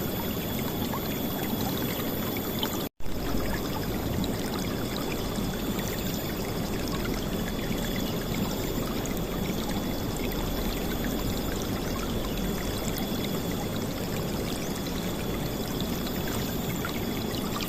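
River water flowing and splashing in a steady rush, with a split-second cut to silence about three seconds in before the flow picks up again.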